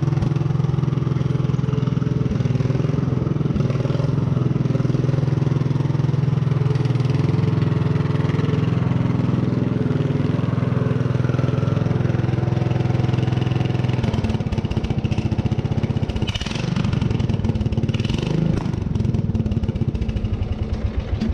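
Mower engine running with no muffler, loud and steady. Its note turns rougher and more uneven about two-thirds of the way through.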